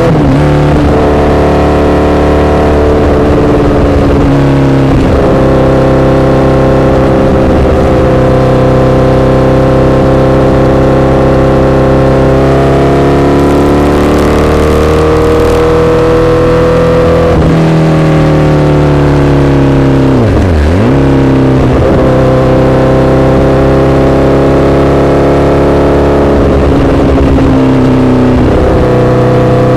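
Honda CBR1000RR's inline-four engine running through an SC-Project exhaust while being ridden, its note holding fairly steady with slow rises and falls in pitch. Several brief drops in pitch with quick recoveries, the deepest about twenty seconds in.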